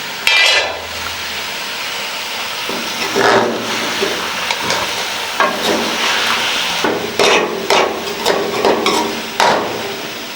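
Chicken and tomatoes sizzling in ghee in a karahi. A lid comes off with a short ringing clank at the start, then a spatula scrapes and knocks against the pan again and again while stirring.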